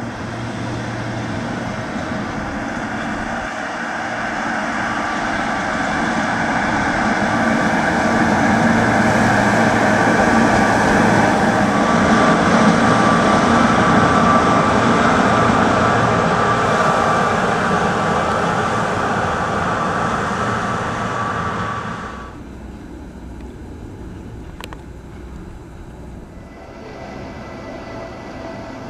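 Gornergrat Railway electric rack-railway train passing close by: the running noise of its motors and gearing on the rack swells as it nears, with a steady whine at its loudest, and fades as it goes. About 22 seconds in it drops abruptly to a quieter train approaching, with a single click a few seconds later.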